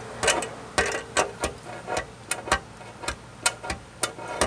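Sharp metallic clicks and knocks from dent-repair tools working the steel tailgate panel, irregular at about two or three a second, a few with a brief ring from the sheet metal.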